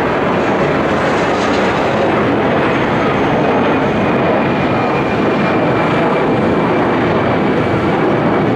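Airbus A320's twin turbofan jet engines at takeoff power: a loud, steady roar with a faint high whine that sets in a few seconds in.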